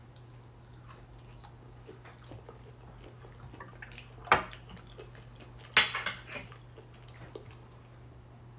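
Quiet chewing of a piece of smoked beef steak, with a few sharp clicks and scrapes of cutlery on a glass cutting board: one about four seconds in and a short cluster around six seconds in. A faint steady low hum sits underneath.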